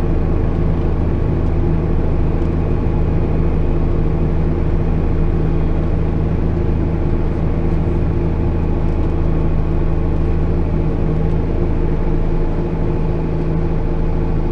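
JCB Fastrac 8250 tractor's six-cylinder diesel engine running steadily at constant revs while pulling a plough.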